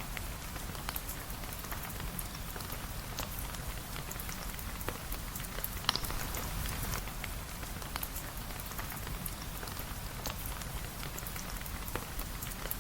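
Steady rain falling, with scattered sharp clicks through it, the loudest about six seconds in.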